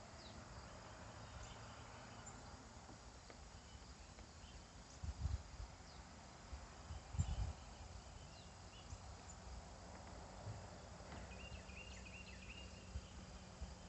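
Faint outdoor ambience with insects chirping, two short low thumps about five and seven seconds in, and a brief warbling chirp near the end.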